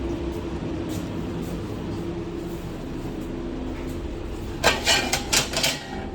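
Steady hum of fast-food kitchen equipment with one level tone, then a short burst of clattering, several sharp knocks in quick succession, about five seconds in.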